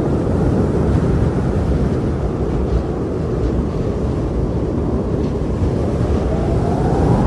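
Strong blizzard wind blowing steadily, a deep rushing noise, with a whistling tone that rises near the end.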